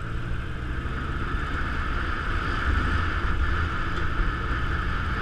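Motorcycle running steadily under way: a low engine rumble mixed with a steady rushing noise.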